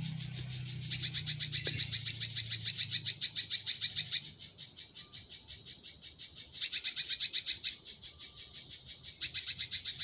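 A small bird calling in runs of rapid, evenly spaced high notes, about six a second, three runs of one to three seconds each. Under them is a steady high insect whine.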